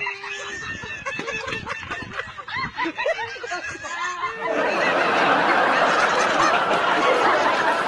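People laughing: short, high-pitched giggles and snickers, then about four and a half seconds in a much louder burst of many people laughing at once.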